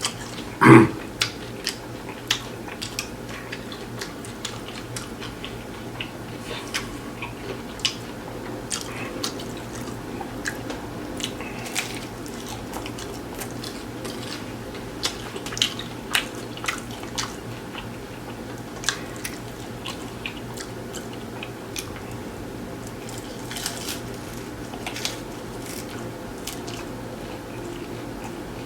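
Close-miked chewing of a taco: irregular wet smacks and mouth clicks throughout, with a brief hum about a second in.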